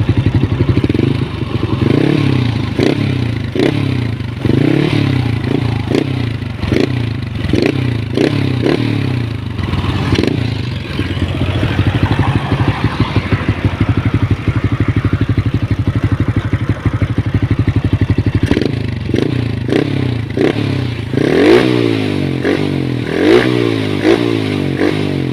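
Yamaha LC135 (Sniper 135) single-cylinder four-stroke engine blipped in short revs about once a second, then idling, then revved up higher several times near the end.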